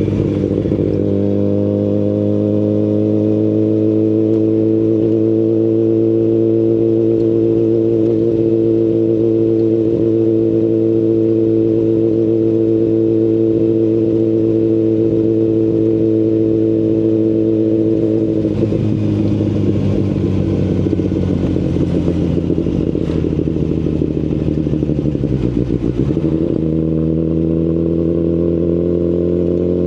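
2019 Kawasaki Ninja ZX-10RR's inline-four engine through an Akrapovic Evolution Line carbon full exhaust, cruising at steady revs. After about 18 seconds the pitch falls as the bike slows, then jumps back up a few seconds before the end.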